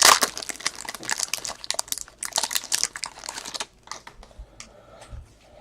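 Plastic trading-card pack wrapping being crinkled and handled, dense for about the first four seconds, then thinning to a few light clicks and rustles near the end.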